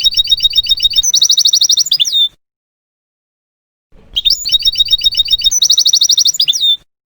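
European goldfinch song: the same phrase twice, each a run of quick high chirping notes, then a fast even trill, then a falling end note. The two phrases are separated by dead silence, like a looped recording.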